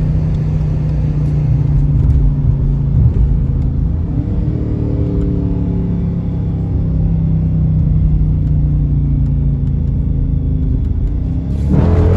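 Dodge Charger with its stock muffler and resonator still fitted, heard from inside the cabin while driving. The engine drones low, its pitch climbs under acceleration from about four seconds in, and it gets louder near the end.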